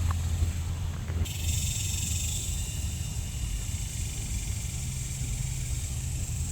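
Outdoor ambience: a steady low rumble, with a steady high hiss that starts abruptly about a second in.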